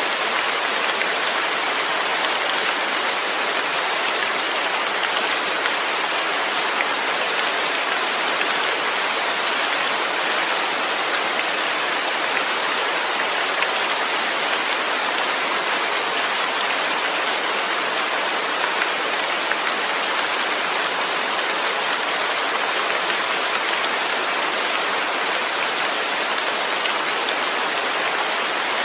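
Steady, heavy rain falling continuously, an even hiss with no breaks or changes.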